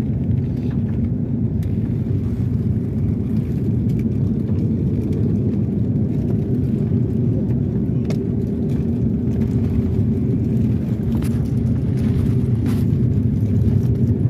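Steady low drone of an airliner cabin in flight: engine and airflow noise heard from inside, with a few faint clicks.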